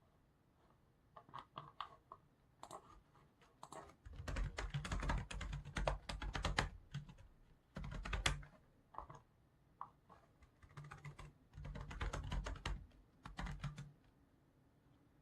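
Typing on a computer keyboard in irregular bursts of rapid keystrokes, with short pauses between runs. The heaviest stretches come about four to seven seconds in and again near the end.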